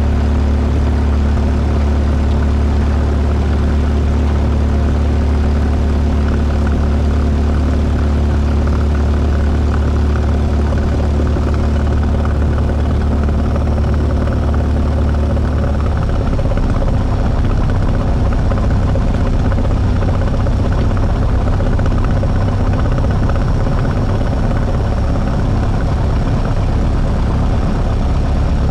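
Cessna 172 Skyhawk's four-cylinder piston engine and propeller running at low taxi power, heard from inside the cabin as a steady drone. About sixteen seconds in the engine note changes, its low steady tones breaking up. The pilot noticed the plane making an unusual noise around this time.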